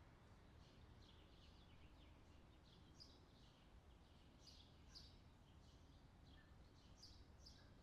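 Faint outdoor summer ambience: small birds chirping over and over, high and brief, against a steady low background hum.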